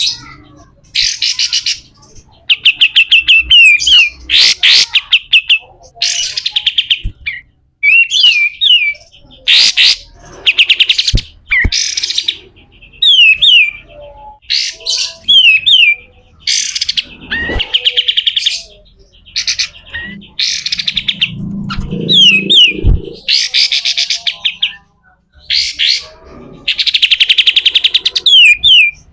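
Sooty-headed bulbul giving harsh, rapid buzzy rattles in short bursts every second or two, mixed with quick down-slurred whistled notes.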